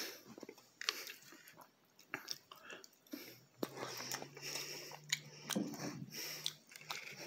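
A person chewing food close to the microphone: soft, irregular wet clicks and smacks of chewing and biting.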